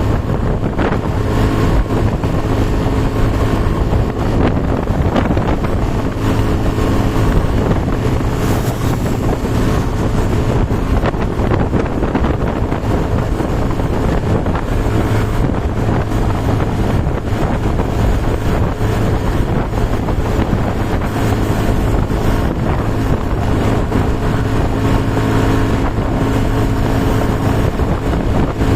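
A vehicle engine running at a steady speed, its hum held under heavy wind noise buffeting the microphone.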